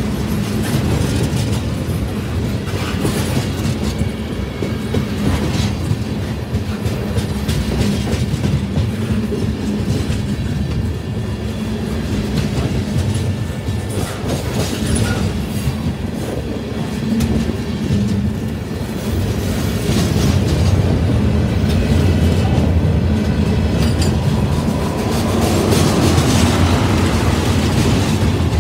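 Freight train cars rolling past: a steady rumble of steel wheels on the rails with clickety-clack over the rail joints, growing somewhat louder in the last third.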